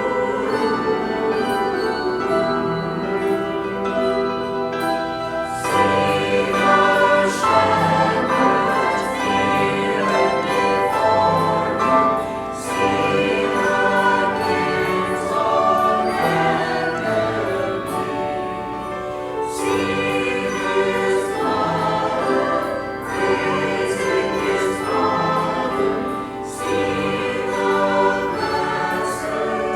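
A church choir singing, the music moving in phrases of about seven seconds each.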